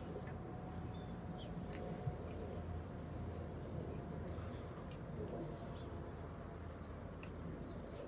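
Small bird chirping repeatedly, short high notes about once a second from about two and a half seconds in, over a low steady outdoor rumble, with one light tap about two seconds in.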